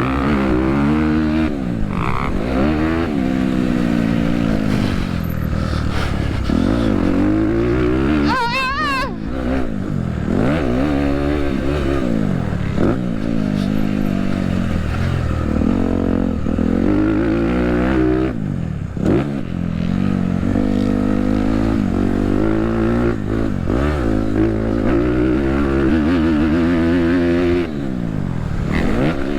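Dirt bike engine revving hard and shifting over and over on a motocross track, its pitch climbing under throttle and dropping off again every couple of seconds.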